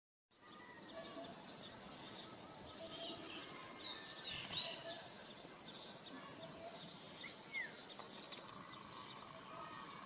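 Several wild birds calling in the trees: quick high chirps and short whistled notes, thickest a few seconds in, over a steady outdoor hiss.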